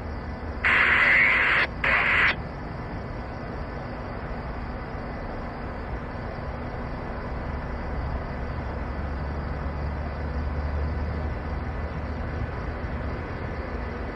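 Two short bursts of scanner radio static in the first two seconds, then a steady low rumble for the rest.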